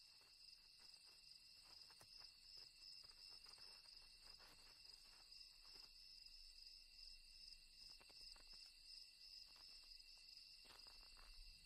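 Faint, steady chorus of night insects, crickets, as a high-pitched continuous trill.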